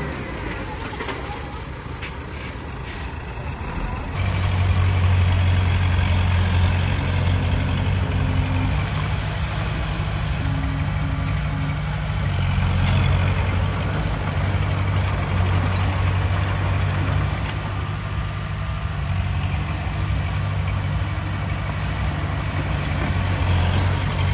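Heavy diesel earthmoving machinery working: an engine drones low and steady, and picks up in load and loudness about four seconds in. There are a few sharp clanks shortly before.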